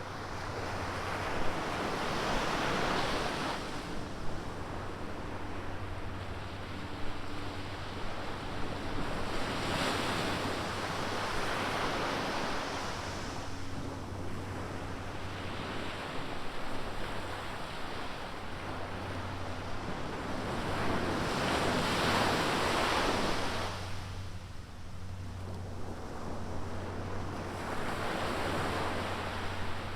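Ocean surf: waves break and wash up the beach in swells of noise every few seconds, loudest about two-thirds of the way through. A steady low hum runs underneath.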